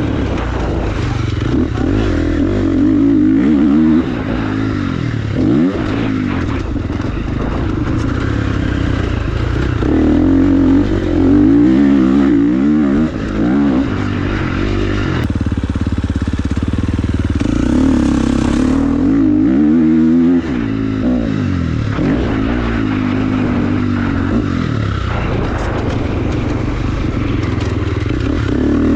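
Motorcycle engine being ridden hard, its pitch rising and falling again and again with throttle and gear changes.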